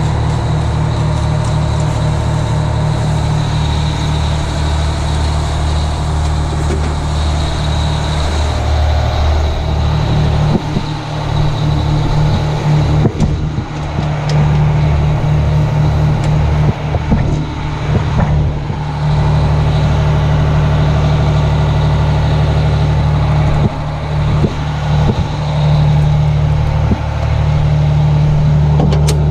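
The two-stroke Detroit Diesel engine of a 1980 Howe fire engine running steadily. A hiss rides over it for about the first eight seconds.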